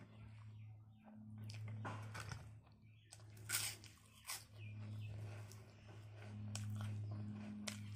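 A person chewing mouthfuls of rice and curry eaten by hand, with mouth clicks and crunches, the sharpest about three and a half seconds in, over a steady low hum.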